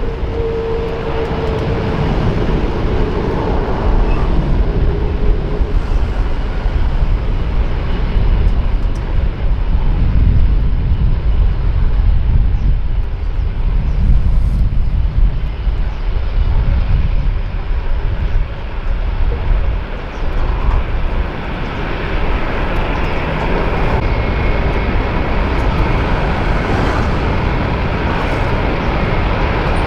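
Jet airliner engines: a loud, continuous low rumble, with a steady higher whine building about two-thirds of the way through.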